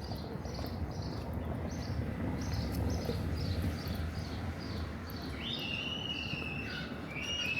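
Birds singing: a quick run of short high chirps, about three a second, then two longer whistled notes, each about a second, in the second half. Under it runs a low steady town rumble.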